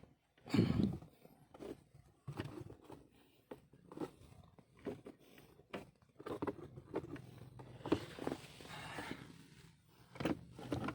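Irregular clicks, knocks and rustling of hands working loose the handbrake trim inside a car, with a louder thump just under a second in.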